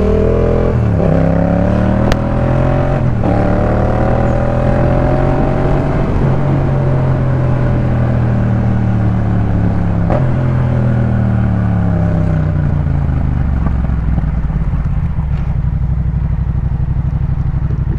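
Yamaha MT-07 parallel-twin engine through a Jeskap K4 full exhaust under way: a brief dip in pitch about a second in, then rising revs, a steady stretch, and a long falling note as it slows, settling into a low, steady pulsing run near the end.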